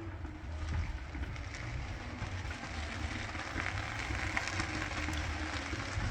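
Firework display heard from a distance: a continuous crackling fizz, typical of crackling and glitter effects, over a steady low rumble, with no single big bang.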